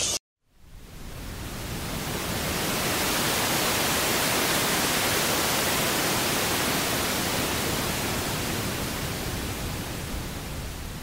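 A steady rushing hiss that fades in over the first couple of seconds after a brief silence, holds even, and eases off slightly near the end.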